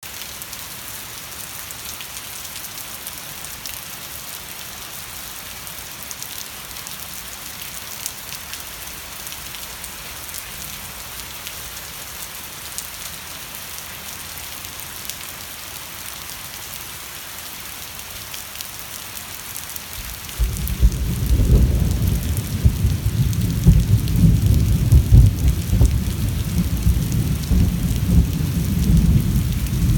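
Steady rain falling, an even hiss. About two-thirds of the way through, a loud, uneven low rumble sets in over the rain and keeps going.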